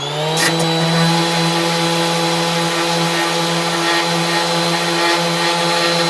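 Parkside PAEXS 20 LI B2 cordless orbital sander running flat out on a 2 Ah 20 V battery: a steady motor hum that finishes winding up to full speed just after the start.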